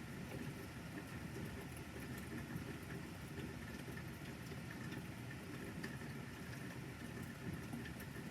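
Light rain pattering in scattered small ticks over a steady low rumble.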